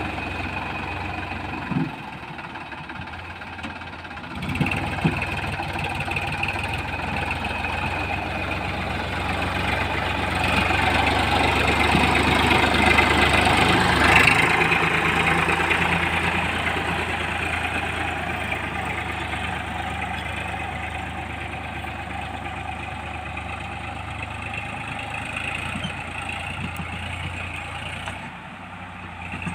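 Heavy diesel engine running steadily. It swells to its loudest around the middle and then gradually fades, with a short quieter stretch a couple of seconds in and another near the end.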